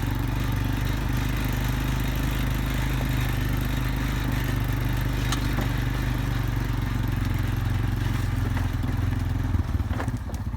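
A vehicle's engine running as it drives slowly along a rough dirt road, with a few clicks and scrapes from the road surface. Near the end the engine drops to a fast, even idle as the vehicle comes to a stop.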